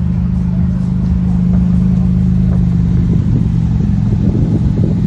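Porsche engine running loud and close at a steady low pitch, its note turning rougher and more uneven from about three seconds in.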